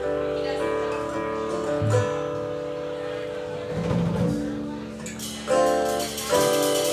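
Live country band playing. Held chords ring for the first few seconds, then strummed guitar chords come in on a steady beat about five seconds in.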